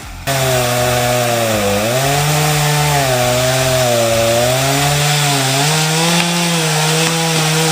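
Chainsaw running at high revs while cutting into wood, its pitch sagging briefly about two seconds in and wavering as the load on the chain changes.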